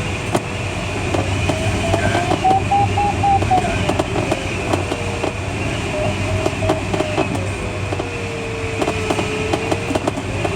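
Cockpit of a Schleicher ASK21 glider in flight: steady rushing airflow with a variometer's beeping tone gliding up and down in pitch as the lift changes, rising about two seconds in, dipping around five seconds and again in a long low sag near the end. Frequent small rattling clicks run through it.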